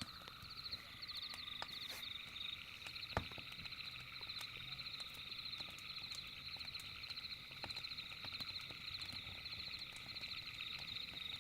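Night insect chorus of rapidly pulsing high-pitched trills, several layers at once, with scattered sharp crackling clicks of a campfire and one louder pop about three seconds in.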